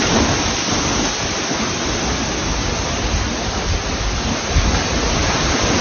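Heavy storm rain pouring down in a loud, steady hiss, with gusty low rumbling from the wind underneath.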